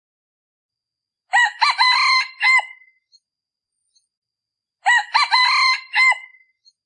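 A male decoy red junglefowl crowing twice, each crow short and ending abruptly; this is the call used to lure wild junglefowl.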